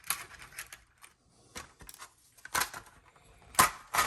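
Small metal gun parts from an AR-15 lower parts kit clicking and clattering as they are picked through by hand, in scattered light taps with one sharper click a little past three and a half seconds in.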